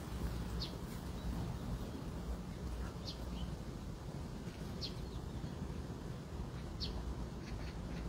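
A bird calling in four short, high chirps about two seconds apart, over a steady low rumble.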